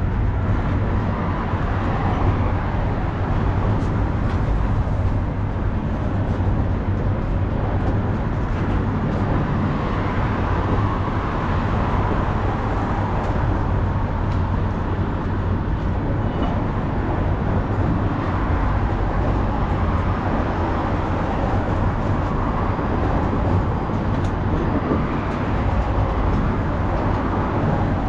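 A train running steadily, heard from the locomotive cab: a continuous low rumble with the even running noise of the wheels on the rails, swelling and easing slowly.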